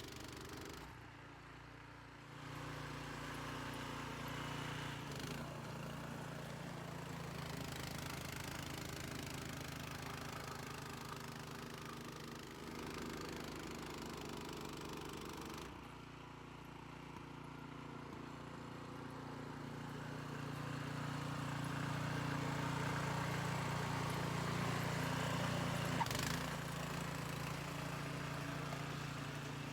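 Troy-Bilt gas snowblower engine running steadily while clearing snow. It dips in level about halfway through, then grows louder for a stretch later on.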